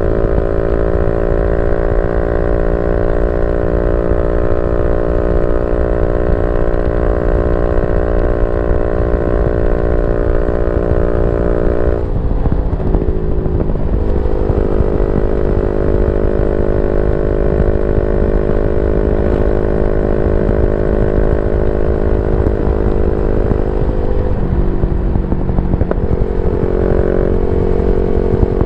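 Yamaha Y15ZR's 150cc single-cylinder four-stroke engine running through a YYPANG SD3 aftermarket exhaust at a steady pitch, with brief breaks and shifts in engine speed about 12 and 25 seconds in.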